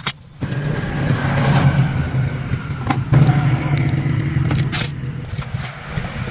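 A motor starts about half a second in and runs with a steady low hum and some noise, with a few sharp clicks of metal parts being handled.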